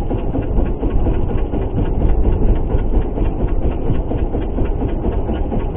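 A boat's engine running steadily with a dense low rumble.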